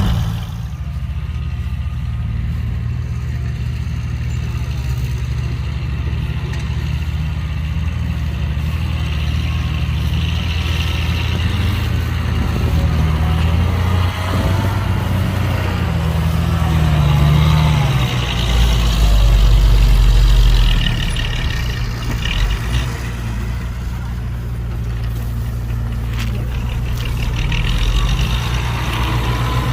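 Heavy diesel engine of earthmoving machinery running steadily, with a louder, deeper rumble from about 18 to 21 seconds in.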